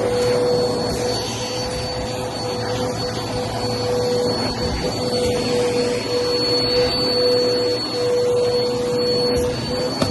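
Vacuum cleaner running steadily: a constant motor hum with a thin high whine over the rush of airflow, the hum dipping briefly a few times.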